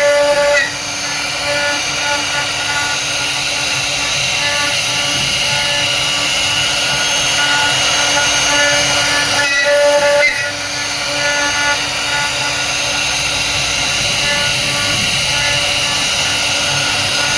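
CNC router spindle running while carving wood, a steady high whine over hiss, with brief dips in loudness about half a second in and again about ten seconds in.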